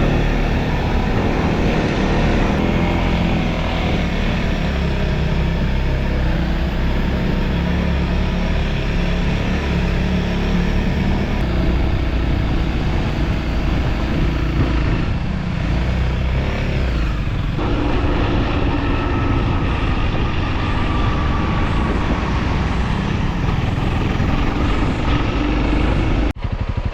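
Motorcycle engine running steadily while riding along, with road noise. It cuts off abruptly near the end.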